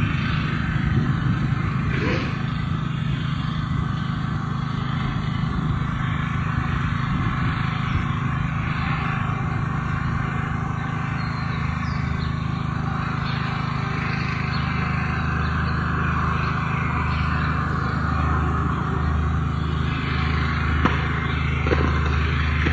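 Steady engine and road noise of a car being driven, a constant low hum with a hiss above it; a deeper hum comes in about halfway through.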